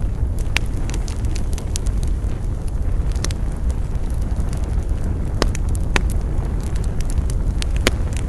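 Wood fire burning, crackling with irregular sharp pops over a steady low rumble of the flames, a few pops louder than the rest.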